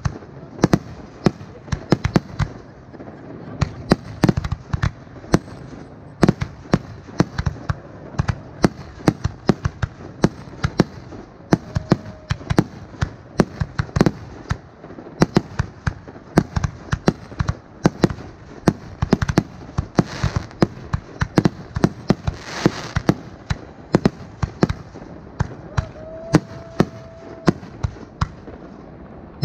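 Fireworks display: a rapid, uneven string of bangs from shells and comets launching and bursting overhead, several a second and without a break. A short hiss about three quarters of the way through.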